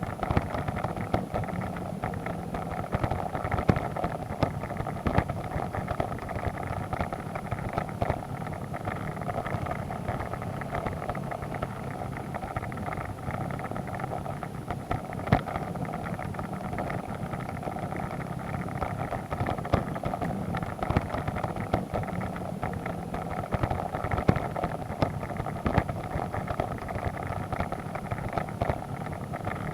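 Motorcycle engine running steadily under way on a muddy dirt road, with frequent sharp knocks and rattles from the bumpy ride and some wind on the microphone.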